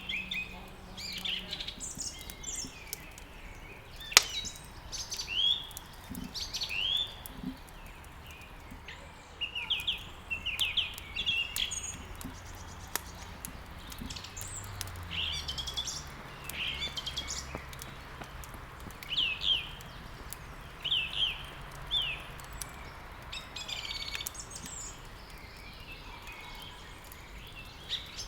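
Songbirds chirping and trilling in short, quick phrases, over the crackle of burning wood in a fireplace, with one sharp, loud pop about four seconds in.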